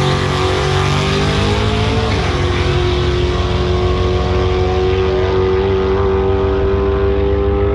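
Car engine running at a steady pitch. It drops a little about two seconds in, then holds level.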